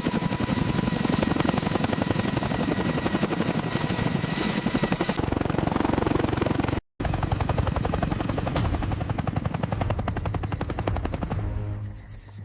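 Helicopter running, its rotor blades beating in a rapid, steady chop over a high turbine whine. The sound cuts out for a moment about seven seconds in, picks up again, and dips near the end.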